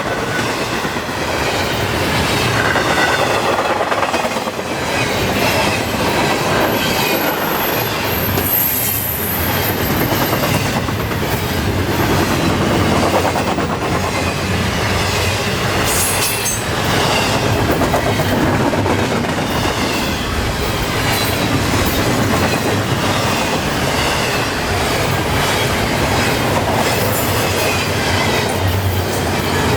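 Long intermodal freight train of double-stack well cars rolling past at about 39 mph: a steady rumble and clatter of steel wheels on the rails. A thin, high wheel squeal rises over it from about seven to twelve seconds in.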